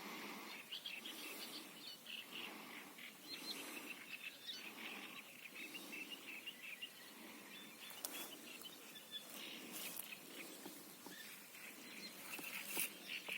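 Small birds chirping and singing, with many short calls throughout, over a low, steady rush of wind.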